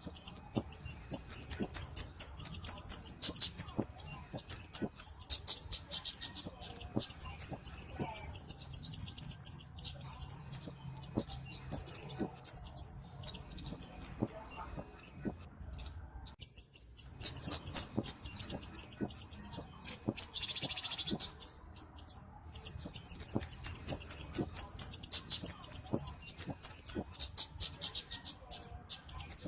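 A flowerpecker (Indonesian cabe-cabean) calls in fast runs of very high, thin chips, broken by short pauses. About two-thirds of the way in there is a brief hissy burst.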